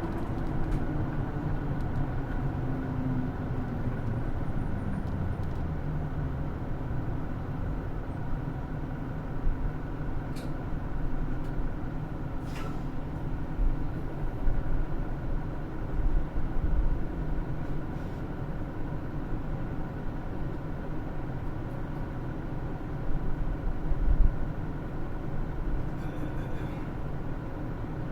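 Hino Rainbow II diesel route bus heard from inside the cabin while driving, with engine drone and road noise. The engine note falls over the first few seconds and then holds steady, and a few short knocks and rattles come from the body.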